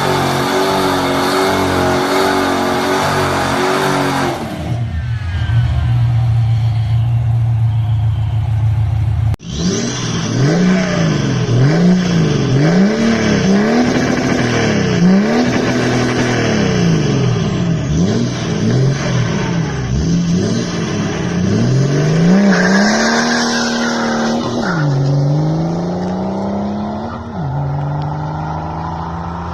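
Sports car exhaust. The engine first holds steady revs, then drops to a low steady idle. After a cut, the engine is revved again and again, rising and falling about every two seconds, then pulls away accelerating, with the pitch dropping at two upshifts.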